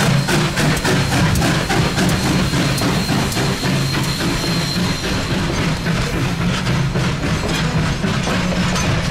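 Durango & Silverton narrow-gauge train rolling past, its wheels clicking over the rail joints in a quick rhythm over a steady rumble. A thin, high wheel squeal runs through the middle.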